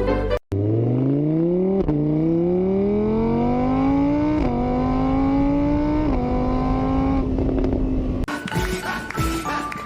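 A car engine accelerating through the gears: its pitch climbs, drops back at each of three shifts, then holds steady.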